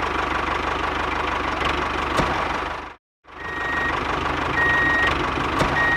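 A vehicle's engine running steadily, with a reversing alarm sounding three long beeps in the second half. The sound drops out briefly about three seconds in.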